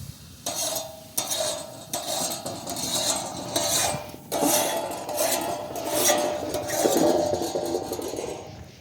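Metal utensils scraping, knocking and clinking against metal cookware in a run of irregular strokes, stopping shortly before the end.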